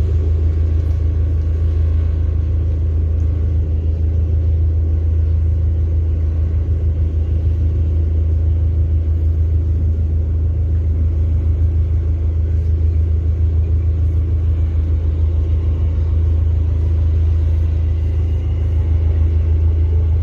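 Steady low engine drone and rumble of a passenger ship's diesel engines, running at a constant level without change.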